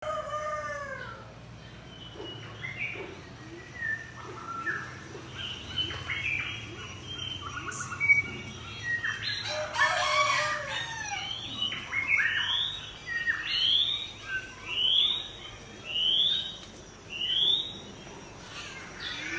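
Birds chirping and calling, with one bird repeating a short rising note about once a second in the second half. A rooster crows at the start and again about halfway through.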